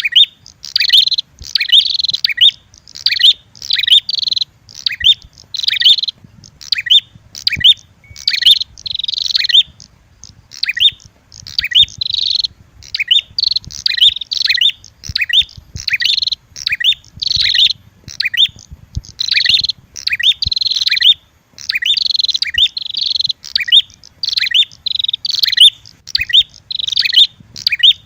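Prenjak lure calls: sharp, high chirping phrases in quick bursts, about one to two a second, from a red-headed prenjak mixed with a female prenjak's fighting calls.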